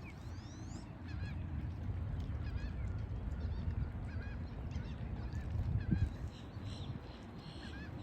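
A flock of waterfowl calling over and over with short, repeated honking calls, several birds overlapping, with a steady low rumble underneath.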